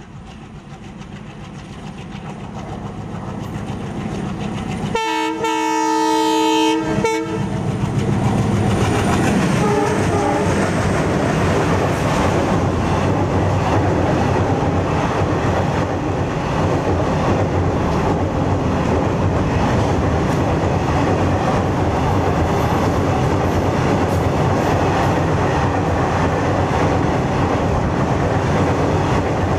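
Indian Railways WDM-3D diesel locomotive hauling a fully loaded freight train: its rumble grows louder as it approaches, and about five seconds in it sounds a multi-tone horn for about two seconds. The loaded covered wagons then run past at speed, a steady loud noise of wheels on rail.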